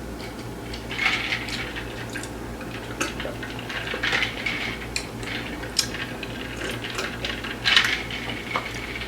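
Close-up drinking sounds, gulps and slurps of Kool-Aid, broken by a few sharp clinks of the drinking vessel.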